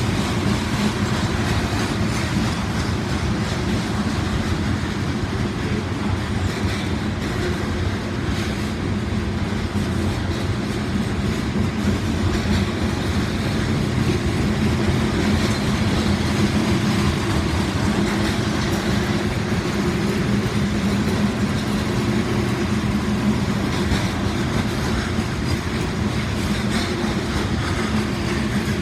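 Norfolk Southern 63V trash train's freight cars rolling past in a steady rumble, with scattered clicks of wheels over the rail joints.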